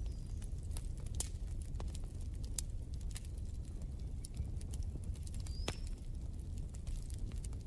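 Wood fire crackling in a fireplace: irregular sharp pops and snaps over a steady low rumble of the flames, with a brief high whistle about three-quarters of the way through.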